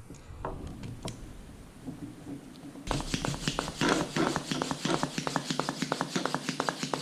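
Bontrager mini hand pump on a Presta valve: a few light clicks as it is fitted, then from about three seconds in quick, even pump strokes, about four a second, inflating the bicycle inner tube.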